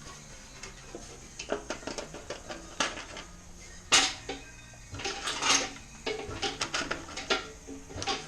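Hammer striking sheet metal in irregular metallic knocks, with one sharper blow about four seconds in and quick runs of taps in the second half: planishing, beating out a damaged panel.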